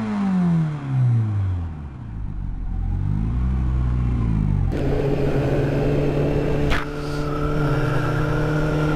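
Motorcycle engine and road noise from a ride: the engine note falls over the first second or so, then rises and falls again. About five seconds in it changes abruptly to an engine running at a steady pitch, with a single click near seven seconds.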